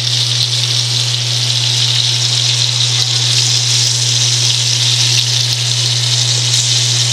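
Breaded rock cod pieces sizzling as they shallow-fry in oil in a cast-iron skillet, a steady hiss, over a steady low hum.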